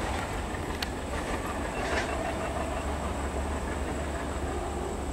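Passenger train coaches rolling away along the track, a steady rumble of wheels on rails with a couple of sharp clicks from the rail joints, about one and two seconds in.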